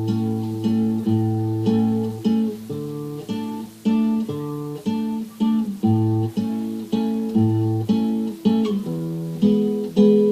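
Acoustic guitar playing an instrumental intro: chords struck about every two-thirds of a second, each ringing out before the next, with no singing.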